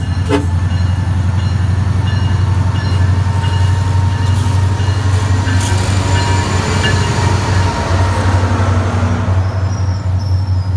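SunRail MPI MP32PH-Q diesel-electric locomotive running as it pulls along the platform, its engine a strong steady low drone, followed by its bi-level coaches rolling past. Two sharp clicks sound right at the start.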